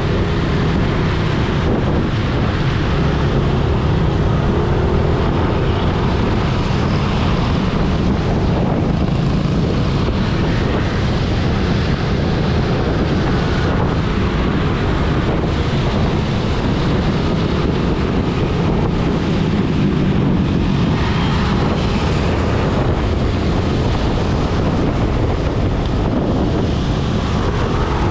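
Steady wind buffeting on a GoPro Hero 8's built-in microphone while riding a motorcycle, with engine and road noise underneath.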